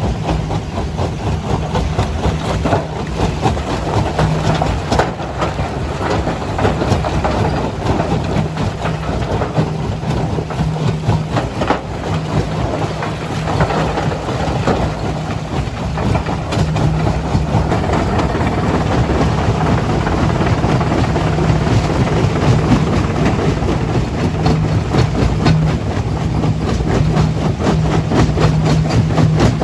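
Heavy quarry machinery running steadily, with a constant low hum under continuous rattling and clattering.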